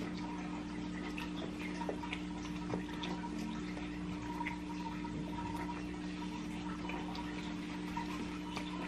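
Quiet wet chewing and lip-smacking as chicken wings are eaten, many small scattered clicks, over a steady low hum.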